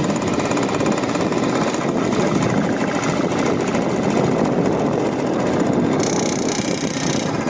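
Motorcycle running with a loud, steady, rapid rattling buzz, the vibration noise the owner traces to the fuel tank: he finds the buzz comes from inside the tank, around its welded-shut overflow tube, and it goes away with the tank removed.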